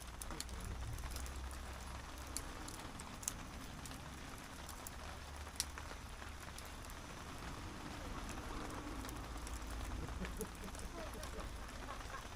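Steady rain falling, with a few sharp pops from a crackling campfire.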